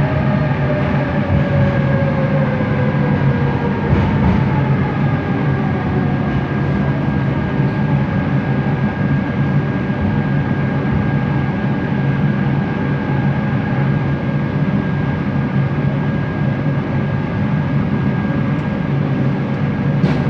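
Bombardier Innovia ART 200 metro train running, heard from inside the car: a steady rumble with a constant motor whine, and a second whine that falls in pitch over the first few seconds.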